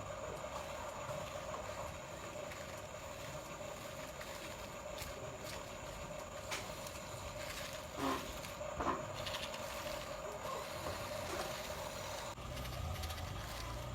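A steady motor hum with two short knocks about eight and nine seconds in.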